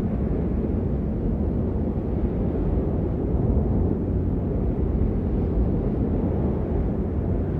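Steady rain, heard as an even, muffled rush that is heavy in the low end with little hiss.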